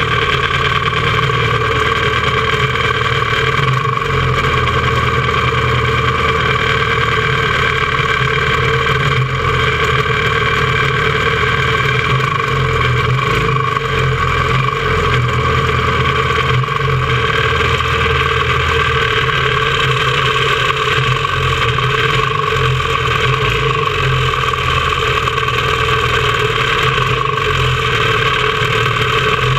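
A quarter-midget race car's small single-cylinder engine idling steadily, close to the onboard camera.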